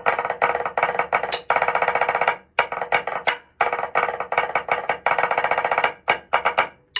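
Drumsticks playing on an Offworld Invader V3 urethane practice pad: quick strokes running into fast rolls, each stroke with a bright, pitched ring, stopping briefly twice.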